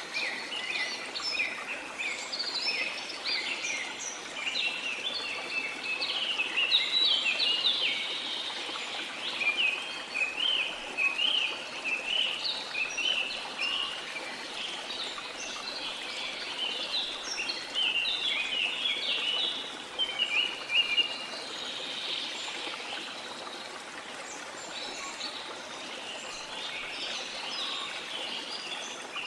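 Many small songbirds chirping and twittering continuously in quick, overlapping high notes, over a soft steady wash of sea water.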